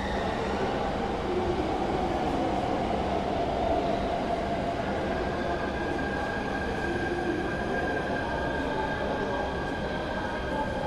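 Steady hum and rumble inside a JR East Echigo Line local train car, with faint steady high-pitched whines over it; a new one sets in about halfway through.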